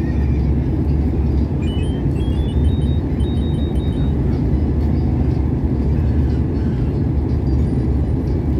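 Airliner cabin noise: the steady low rumble of the engines and airflow through the fuselage. About two seconds in, a faint high whine rises in small steps.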